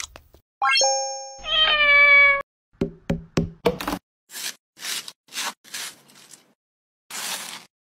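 A cat's meow, with a short rising call just before it, followed by a few quick knocks and then a series of short slicing strokes, typical of a knife cutting through a watermelon.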